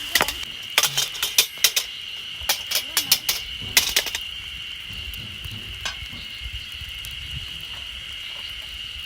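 A metal spatula or ladle clanking and scraping against a wok: a quick run of sharp metallic clicks over the first four seconds, then one more knock about two seconds later.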